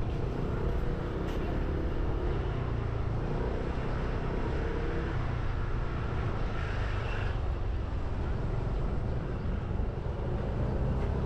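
Motorbike engine running steadily, with road and wind noise.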